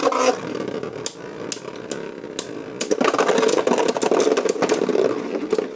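Beyblade Burst tops spinning in a plastic stadium with a steady whirring rattle, clacking against each other and the stadium walls many times. The whirr grows louder about halfway through.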